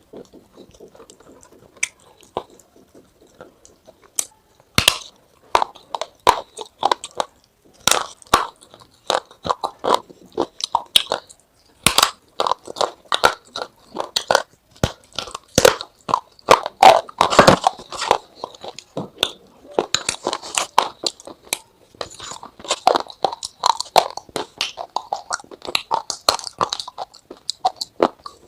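Crunchy food being bitten and chewed close to the microphone: a run of loud, irregular crunches that starts about five seconds in and is densest in the middle.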